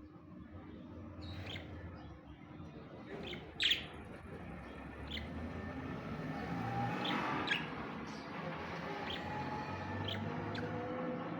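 Budgerigars chirping: scattered short, sharp chirps, the loudest about a third of the way in and a quick run of them just past the middle, over a faint steady low hum.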